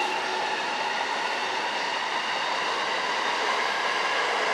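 Electric train running on the tracks: steady rolling noise with a whine of several held tones that rise slightly in pitch near the end.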